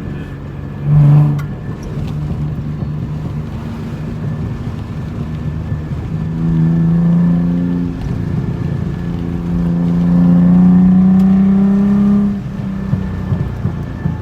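Straight-piped Nissan 300ZX V6 exhaust droning under way, with a short loud blast about a second in. It then revs up twice under throttle, the note rising each time before being cut off. A few short pops follow near the end as the throttle closes.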